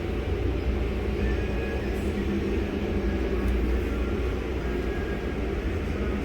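Car wash tunnel machinery running: a steady low rumble with faint steady tones above it.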